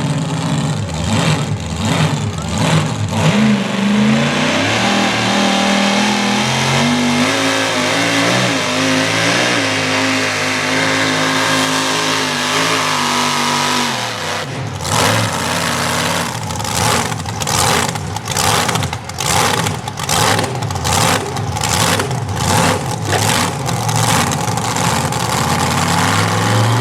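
A pulling vehicle's engine at full throttle during a hook down the pulling track. Its pitch climbs and holds high for about ten seconds, then halfway through the sound turns into regular pulses about twice a second that run to the end.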